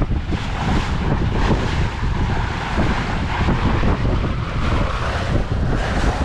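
Wind buffeting the microphone over water rushing past the hull of a sailboat under way, a steady dense noise strongest in the low end.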